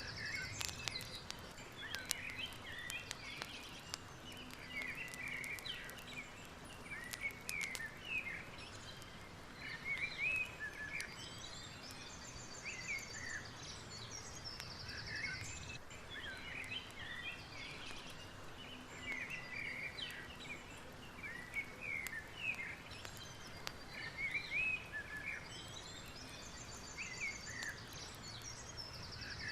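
Many birds chirping and calling, with a buzzy high trill twice, over a steady soft hiss. Sharp clicks come mainly in the first few seconds.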